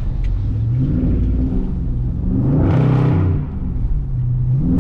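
Dodge Charger Scat Pack's 6.4-litre HEMI V8 revving under throttle. The engine note climbs to a peak about three seconds in, drops away, then starts climbing again near the end.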